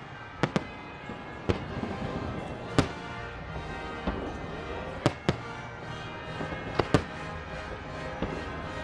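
Fireworks going off at a display: about ten sharp bangs at irregular intervals, a couple of them in quick pairs, over music playing steadily underneath.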